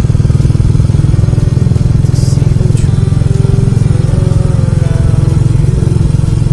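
Motorcycle engine running steadily while riding, its exhaust pulsing in a fast, even beat.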